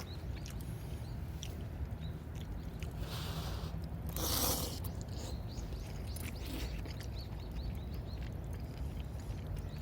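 Campfire crackling with scattered small pops and clicks over a steady low rumble, broken by two brief scraping rustles about three and four and a half seconds in.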